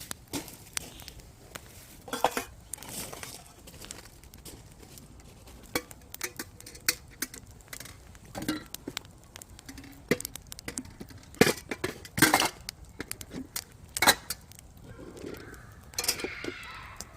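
Firewood burning in a campfire, crackling with irregular sharp pops and snaps; the loudest pops come about twelve and fourteen seconds in.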